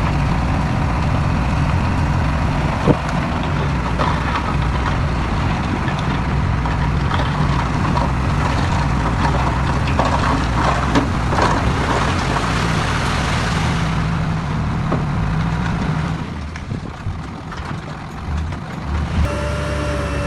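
Heavy diesel engine of earth-moving machinery running steadily, with scattered knocks and clatter over it. The engine sound drops away about sixteen seconds in, and music starts near the end.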